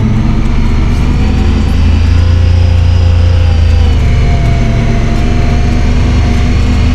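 A vehicle's engine running steadily as it drives along, its pitch shifting slightly about four seconds in.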